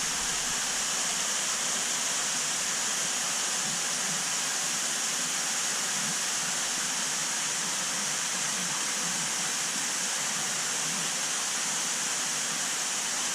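Steady rush of running, splashing water, typical of a large aquarium's water circulation; it holds even throughout, with a bright hissy character.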